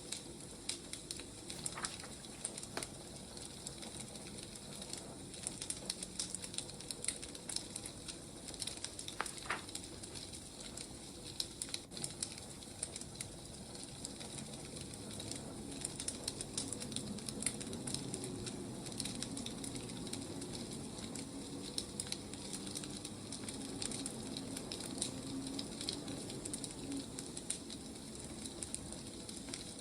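Wood fire burning: a steady soft hiss with frequent, irregular crackles and pops from the logs.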